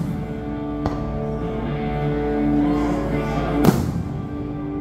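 Music playing with an aerial fireworks display: two firework bangs cut through it, a sharp one about a second in and a louder one near the four-second mark.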